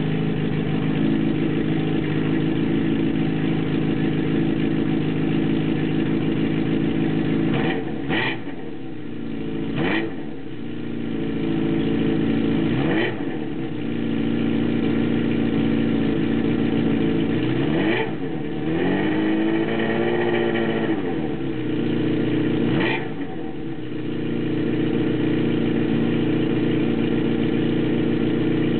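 1980 Honda CB750C's air-cooled inline-four idling through a Cycle-X 4-2-1 exhaust with a Moroso Spiral-Flow muffler. The throttle is blipped five times, each rev rising and falling back to idle; the fourth is a longer rev lasting a few seconds.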